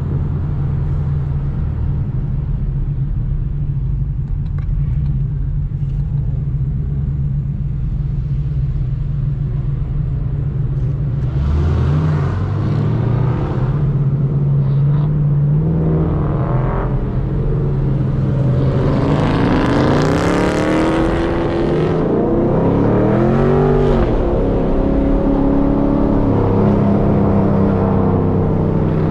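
Chevrolet Camaro SS V8 cruising at a steady low note, then accelerating hard from about a third of the way in, its pitch climbing through the gears. A wide rush of noise rises with the engine near the two-thirds mark.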